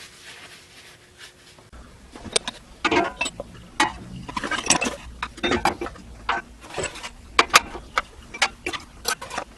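Irregular sharp clinks and taps of hard objects, starting about two seconds in, after a faint steady hum.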